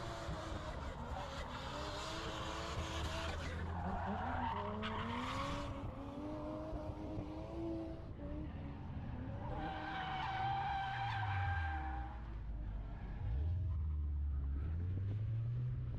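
Drift car's engine revving up and down while its tyres skid and squeal through a slide. A long steady tyre squeal comes around two-thirds of the way in, followed by the engine note dropping and climbing again.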